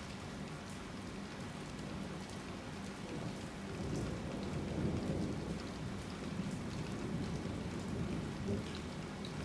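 Heavy rain falling steadily, with a low rumble of thunder that builds about three and a half seconds in, is loudest around the middle, and dies away near the end.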